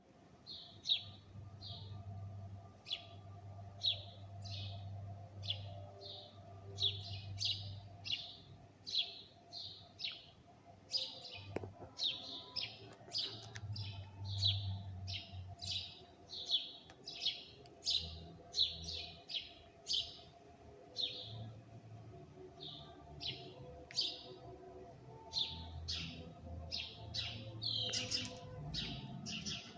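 Birds chirping: a long run of short, sharp calls repeated about twice a second, with a faint low hum underneath.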